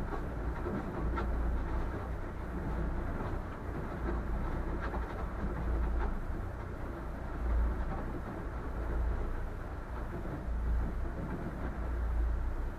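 Boat's engine running steadily under way, a low drone with a few faint knocks.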